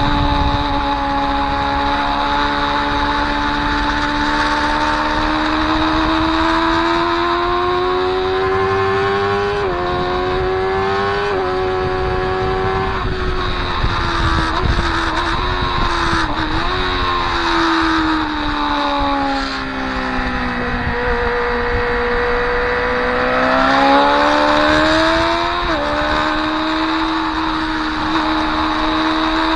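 Motorcycle engine heard from on board at speed on a race track, with wind rushing past: it pulls up through the revs with quick pitch drops at the gear changes, winds down as the bike slows for a corner, then accelerates and shifts up again.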